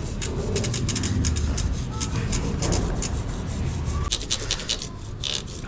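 Hand scrubbing on a mountain bike during a wash: a quick, irregular run of rubbing and scraping strokes.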